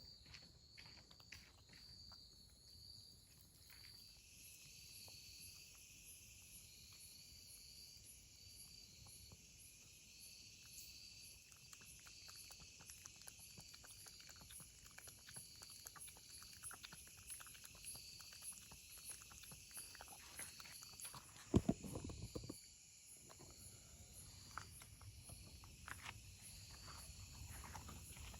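Outdoor insects chirping and buzzing in a steady high repeating pattern, with scattered faint clicks. A brief low thump and rustle about twenty-one seconds in is the loudest sound.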